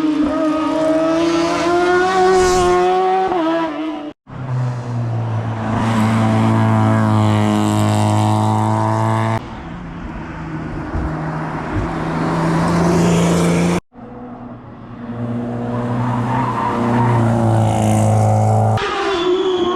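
Rally cars at full throttle on a tarmac hillclimb, engines pulling hard with the pitch climbing through the gears and dropping at shifts. Several separate passes follow one another, each ending abruptly where the footage is cut.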